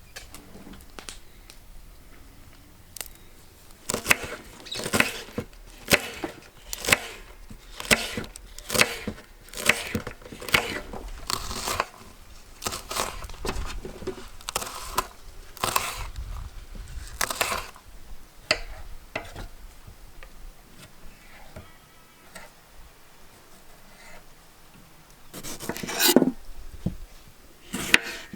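Food being cut or torn by hand in preparation: a run of sharp strokes, about one or two a second, for some fourteen seconds, then quieter handling and one louder burst near the end.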